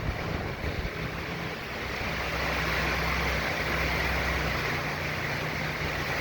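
Hurricane-force wind and rain blowing steadily, with a low rumble of wind buffeting the microphone.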